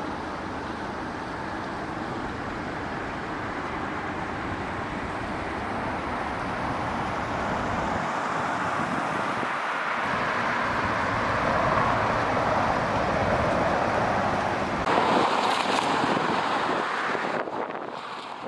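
Rain-swollen river rushing: a steady noise of running water that slowly grows louder and drops away near the end.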